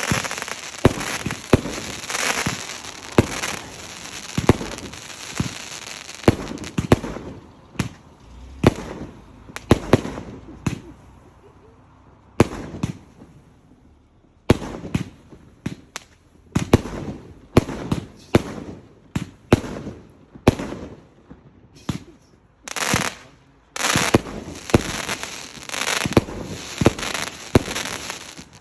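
Fireworks display: a rapid run of sharp bangs from bursting shells with dense crackling. It thins to a quieter lull about halfway through, then the bangs pick up again and the crackling returns near the end.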